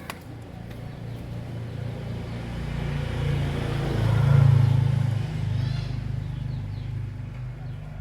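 A passing motor vehicle: a low engine rumble that swells to a peak about halfway through and then fades away, with a sharp click at the very start and a few faint bird chirps near the end.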